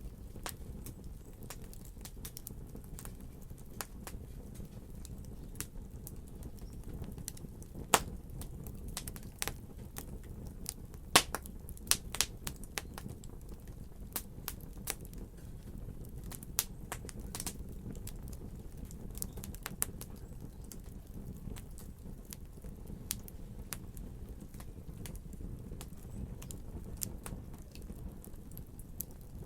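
Wood fire crackling and popping: a steady low rumble of burning with irregular sharp pops and snaps, a few louder cracks in the middle.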